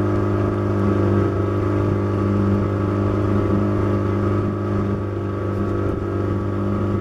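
A boat's outboard motor running steadily at a constant speed.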